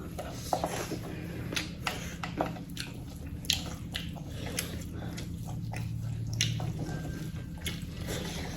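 A person chewing and biting spicy chicken close to the microphone, with irregular mouth clicks and smacks over a steady low hum.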